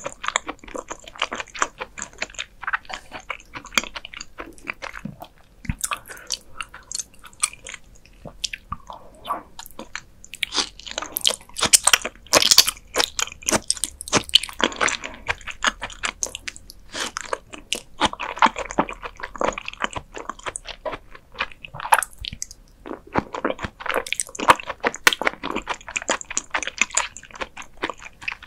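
Close-miked ASMR chewing of beef spinal cord: dense runs of short mouth clicks and smacks with brief pauses between bites, loudest around the middle and again near the end.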